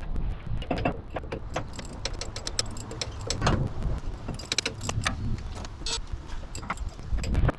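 Metal hand tools and engine parts clinking and clicking irregularly, over low rumbling handling noise, during engine teardown work.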